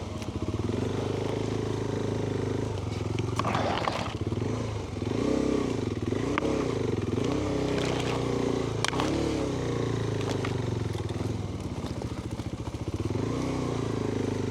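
Adventure motorcycle's engine running at low revs, its pitch rising and falling repeatedly as the rider works the throttle over rough forest ground, with scattered clicks and clatter from the bike.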